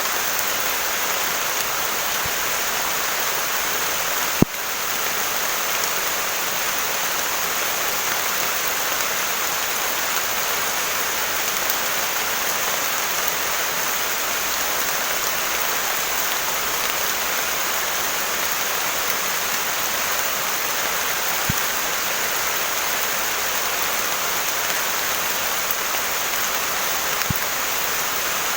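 Heavy rain falling steadily in a dense, even hiss, with a single sharp tap about four seconds in and a couple of fainter ticks later.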